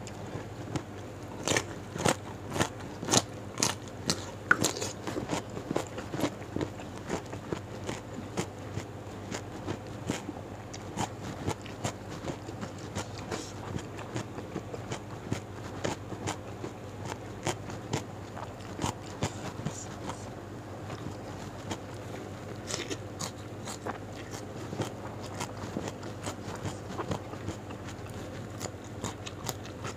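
Close-miked crunching and chewing of crisp raw vegetables: sharp bites and mouth sounds come thick and fast for the first several seconds, then more sparsely.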